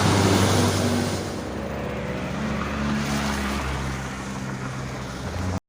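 Street traffic noise: a vehicle engine running with a steady low hum over a wind-like rush, easing off slowly and cutting off abruptly near the end.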